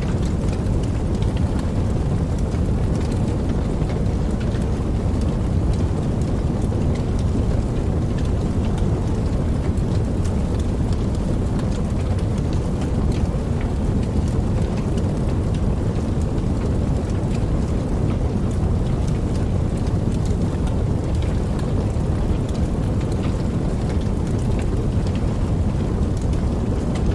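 Steady rushing of falling water, heaviest in the low range, with fine scattered drip and splash ticks throughout.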